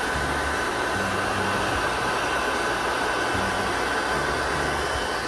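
Hair dryer blowing steadily, a whooshing rush with a constant high whine, used to heat and loosen tape and stickers on an air conditioner.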